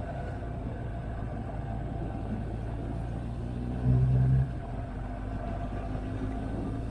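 Motorcycle engine running at steady speed on the road, with rushing air and road noise over it. A brief louder surge of the engine comes about four seconds in.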